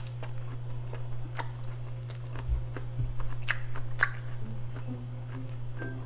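Close-miked chewing of a bite of corn on the cob, with scattered wet smacks and clicks over a steady low hum.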